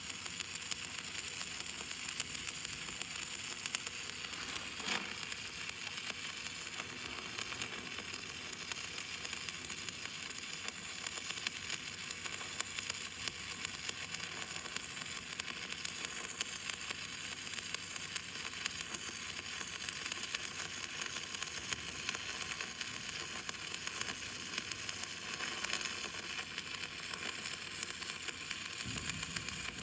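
Stick welding arc burning a 7024 iron-powder electrode, a steady crackling sizzle that keeps going without a break.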